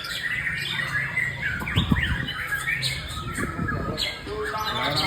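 White-rumped shama (murai batu) singing a rapid, varied song of short notes that slide up and down in pitch.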